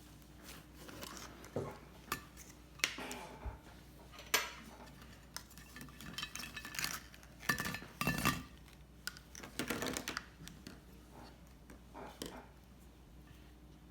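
Scattered clinks, taps and scrapes of containers and utensils being handled, with the loudest knocks a few seconds in and between about seven and ten seconds in.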